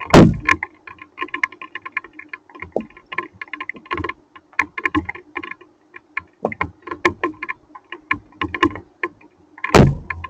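Hailstones striking a hard surface: a rapid, irregular clatter of sharp clicks, with a heavier knock just after the start and another near the end.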